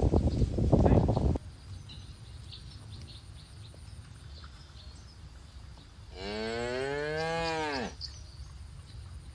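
A cow mooing once, a call of a little under two seconds that rises and then falls in pitch. Before it, a loud rough rustling noise fills the first second and a half and cuts off abruptly.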